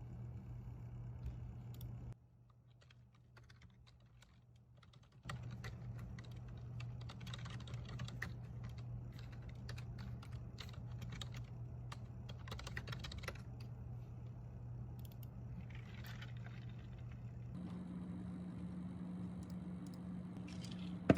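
Typing on a computer keyboard: quick, irregular runs of key clicks over a steady low electrical hum, with a quieter pause in the typing early on.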